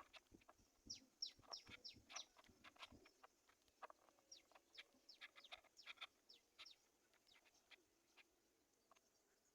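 Faint bird chirping: a quick series of short high chirps, each falling in pitch, thinning out after about seven seconds.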